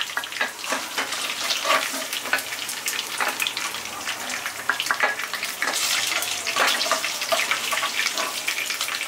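Soya chaap pieces sizzling and crackling as they fry in hot ghee in a kadhai, with scattered light clicks of a steel slotted spoon as the browned pieces are lifted out.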